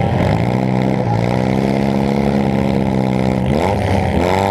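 Demolition derby car's engine, heard from inside the car, running loud at a steady pitch and then revving up near the end.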